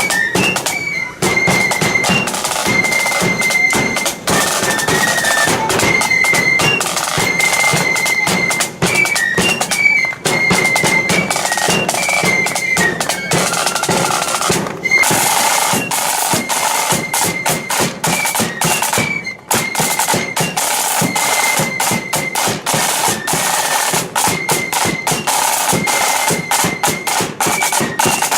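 Marching flute band playing: a high flute melody carried over snare drum rolls and the beat of a bass drum.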